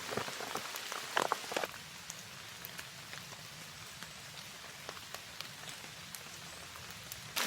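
Steady light rain pattering on a tarp, with scattered individual drop ticks and a few louder knocks in the first two seconds.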